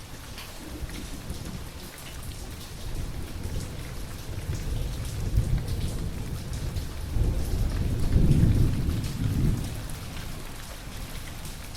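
Steady rain falling, with a long rolling rumble of thunder that builds through the middle, is loudest about eight seconds in, and dies away near the end.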